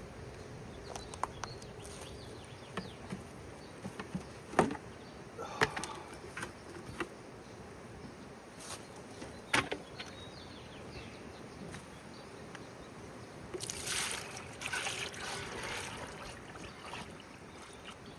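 Scattered clicks and knocks of beehive equipment being handled, then sugar water poured into a feeder for about two seconds near the end, over a faint steady hum of honeybees.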